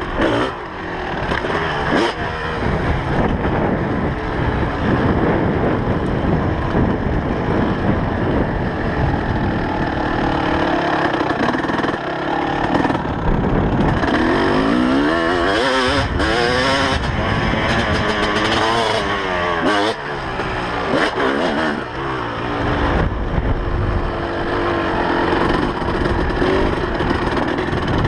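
2004 Kawasaki KX250's single-cylinder two-stroke engine being ridden off-road, its revs rising and falling again and again as the throttle is worked.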